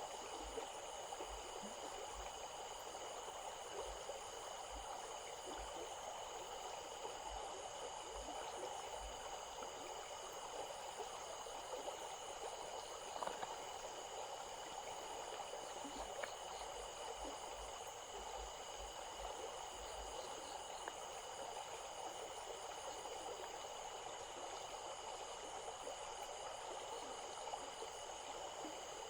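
Small stream flowing steadily, an even rushing water sound, with several steady high-pitched tones held over it.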